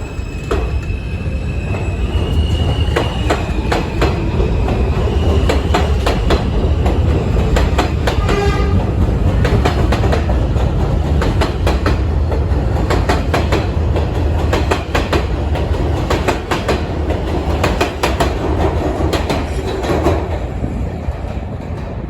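R160 subway train pulling out of the station: its motors whine, rising in pitch over the first few seconds, then the wheels clack rapidly over the rail joints. The train stays loud through most of the stretch and fades a little near the end.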